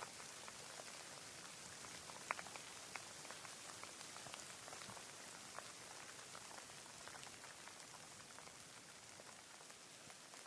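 Rain falling: a steady faint hiss with many separate drops ticking on a surface, one sharper drop about two seconds in.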